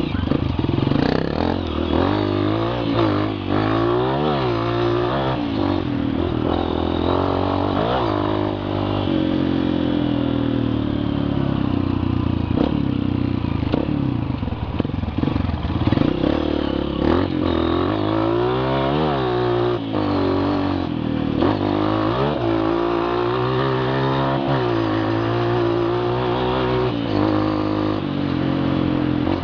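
Dirt bike engine running along a dirt trail, its pitch rising and falling several times as the throttle opens and closes.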